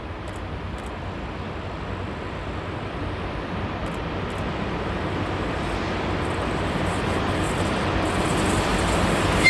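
Train approaching, its steady rumble growing louder and louder.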